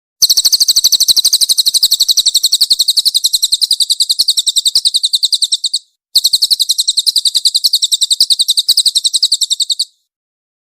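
Cililin songbird singing a fast, dense trill of sharp high notes, about eight a second, in two long runs: one of about five and a half seconds, then after a brief pause another of about four seconds.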